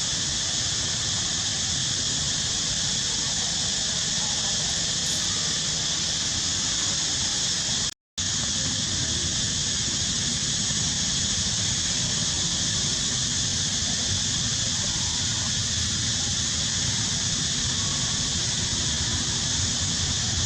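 Steady high-pitched outdoor hiss with no breaks or separate events, cut off completely for a moment about eight seconds in.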